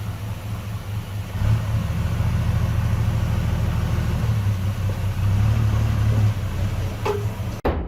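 Heavy diesel engine of earthmoving machinery running, a bulldozer or dump truck, with a deep steady rumble that grows louder about a second and a half in and holds under load. The sound breaks off suddenly near the end.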